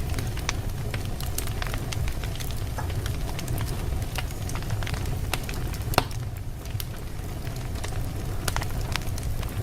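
Wood fire burning in a fireplace: a steady low rumble of flames with irregular sharp crackles and pops from the logs, one louder pop about six seconds in.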